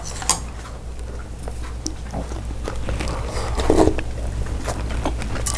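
Eating sounds: food being bitten and chewed, with scattered short crunches and clicks over a steady low hum.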